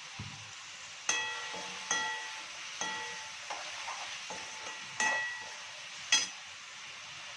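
A metal spatula knocking against a frying pan during stirring, about eight clinks that each ring briefly, over a steady sizzle of food frying in the pan.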